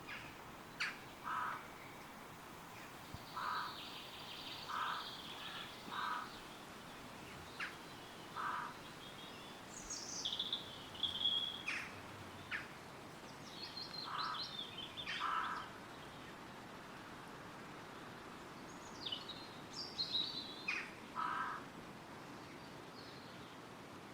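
Woodland birds calling over a steady rush of wind through the trees. One bird gives a short call again and again, eight times with pauses between. Higher, quicker chirps and song phrases come in twice: a stretch in the middle and again near the end.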